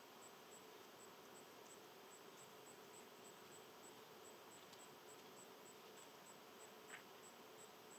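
Faint insect chirping: a steady train of high, evenly spaced pulses, about three or four a second, over a low hiss. One brief, slightly louder chirp comes near the end.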